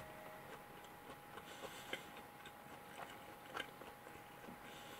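Faint chewing of a bite of batter-coated chicken nugget: soft, irregular mouth clicks, about one every half second or so.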